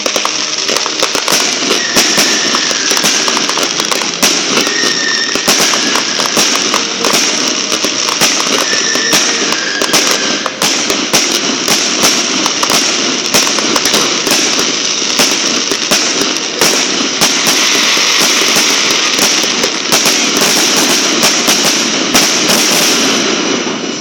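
Fireworks display: a dense, continuous run of sharp cracks and bangs from aerial shells over a crackling hiss. It thickens in the last few seconds, then thins out near the end.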